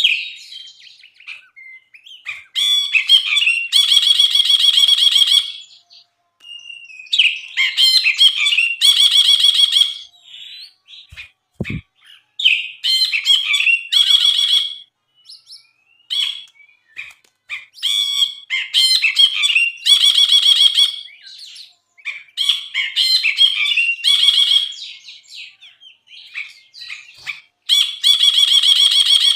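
Brinji, a bulbul, singing: six loud phrases of two to three seconds, about every four to five seconds, each building from varied chirps into a fast, dense trill, with short chirps between phrases.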